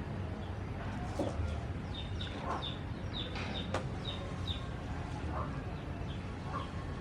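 Small birds chirping: short, quickly falling chirps repeated every half second or so, over a steady low rumble, with a single sharp tap a little past halfway.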